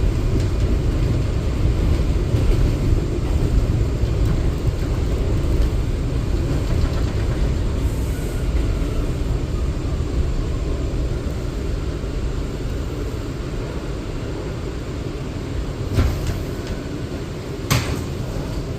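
R179 subway car rumbling along the rails, the low running noise slowly fading with a faint falling whine as the train slows. Two short knocks sound near the end.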